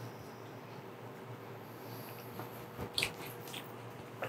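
Faint wet mouth sounds of a man chewing a soft, sticky mouthful of halwa, with a few small clicks about three seconds in.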